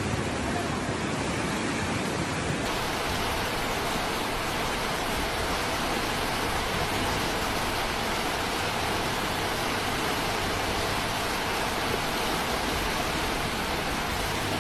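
Steady, dense rushing of water with no let-up, as of a flood torrent. The character of the noise changes abruptly about two and a half seconds in, where one clip cuts to the next.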